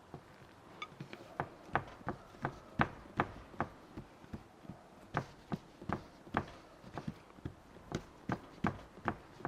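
A steady run of sharp knocks, about two to three a second, with a short pause near the middle.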